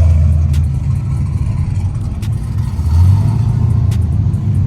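Car engine with a loud exhaust running at low revs, its low rumble swelling about three seconds in as it pulls away.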